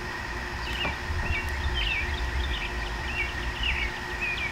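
A songbird singing a run of short, quick chirps, about two a second, over a low steady outdoor rumble.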